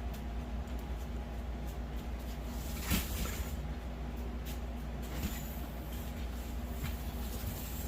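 A few short knocks and clicks of grow-tent frame poles and plastic connectors being handled and fitted together, the loudest about three seconds in, over a steady low hum.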